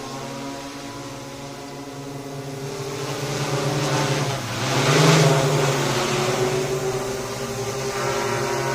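Agricultural spraying drone's propellers humming steadily. The sound grows louder and peaks with a rush of air about five seconds in as the drone passes close, then settles back to a steady hum.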